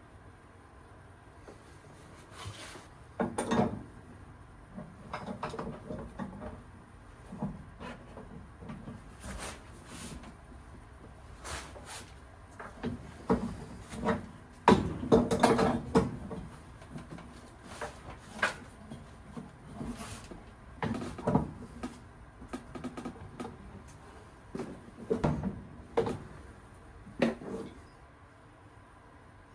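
Irregular knocks, clunks and clatter of objects being handled and set down, busiest and loudest about halfway through.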